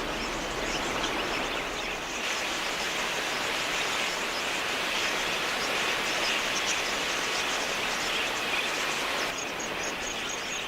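A large flock of wild budgerigars chattering: a dense, steady wash of many short high chirps. Near the end it thins and a run of regular high ticks comes through.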